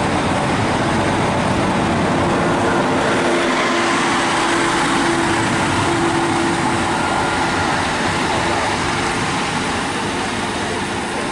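Two coupled Class 150 diesel multiple units running at the platform, a loud steady diesel rumble with a faint hum, easing slightly near the end.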